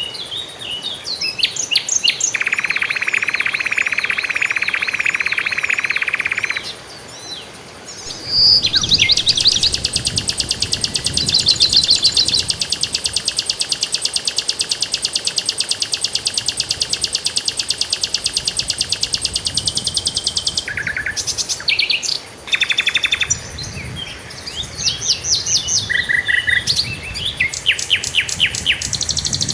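Songbirds singing: a buzzy trill of a few seconds, then a long, very fast high trill lasting about ten seconds, among repeated short chirps and whistled notes.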